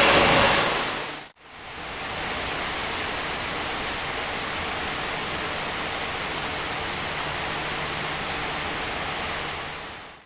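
A train sound fades out about a second in. Then comes a steady, even hiss with a faint low hum, typical of the air-conditioning and ventilation of a subway train standing at the platform before departure.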